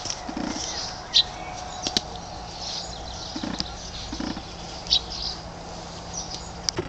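Small birds chirping now and then over a steady faint background, with a few sharp light clicks and knocks.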